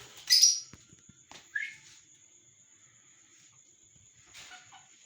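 Lovebirds chirping: a loud, sharp chirp just after the start, a shorter call about a second later and fainter calls near the end. A faint steady high whine runs underneath.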